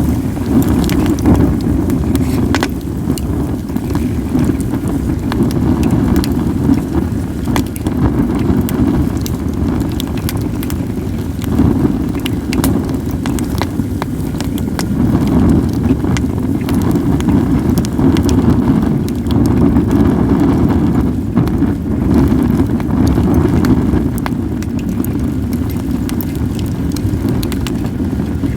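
Acacia and mixed firewood burning, crackling with scattered sharp pops, over a louder steady low rumble of wind on the microphone.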